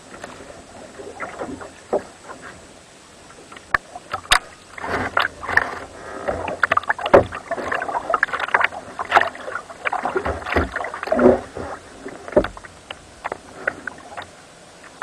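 Water splashing and sloshing around a kayak in an irregular run of splashes, busiest and loudest through the middle and thinning out near the end.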